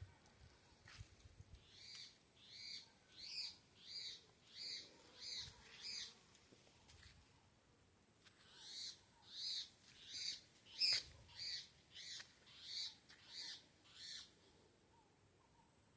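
A bird calling in two runs of repeated, evenly spaced high notes, about one and a half notes a second, seven in the first run and nine in the second, with a pause of about two seconds between them.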